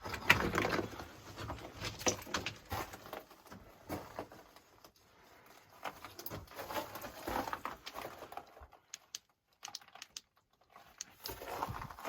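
Footsteps crunching and scuffing on loose rock and debris in a narrow mine tunnel: a string of irregular clicks and scrapes that dies down for a couple of seconds shortly before the end.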